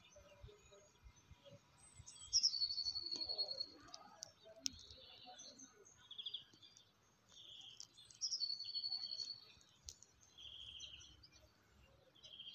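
Songbirds singing outdoors: a high, trilled song phrase about two seconds in, repeated about eight seconds in, with shorter chirps between.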